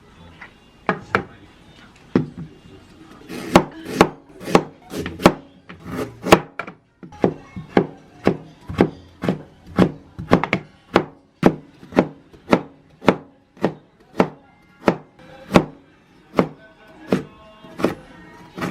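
Kitchen knife chopping on a wooden cutting board: a few single strokes at first, then steady chopping at about two to three strokes a second.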